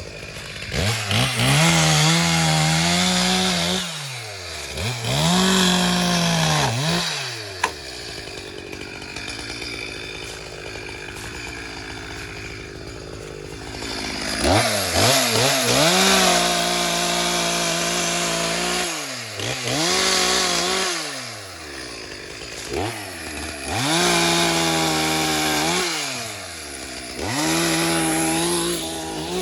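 Chainsaw cutting wood, its engine revving up and dropping back again and again in long pulls. It settles to a lower, steadier run for several seconds in the middle, and there is one sharp knock about a third of the way in.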